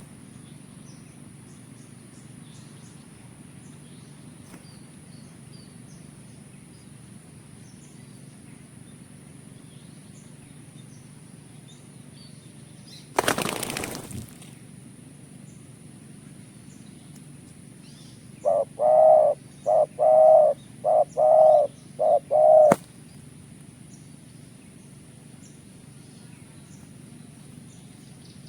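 Spotted dove cooing a phrase of about eight short notes in quick groups, late on. About halfway there is a second-long rush of noise that fits wings flapping. Faint chirps of small birds and a steady high whine go on underneath.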